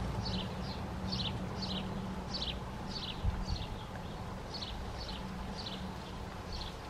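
A small bird calling over and over: a short high note falling in pitch, about twice a second, over a steady low hum. There is one soft thump a little over three seconds in.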